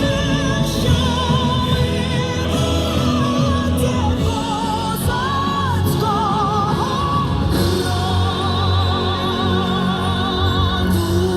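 A song with a singer holding notes with strong vibrato over a full band accompaniment, played from FM radio through a Dual stereo receiver and loudspeakers.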